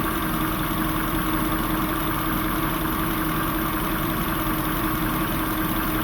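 Jaguar engine idling steadily while it is tested for a vacuum leak: it is running lean, with short-term fuel trim at about 10% where it should be 0.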